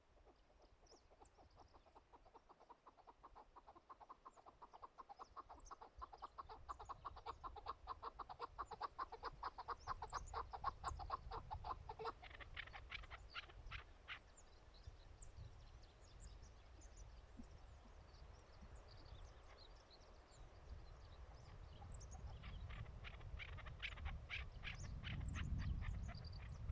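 Chukar partridge calling: a long run of rapid clucking notes that builds in loudness, then breaks into higher, sharper notes. Faint small-bird chirps and a low wind rumble sit underneath.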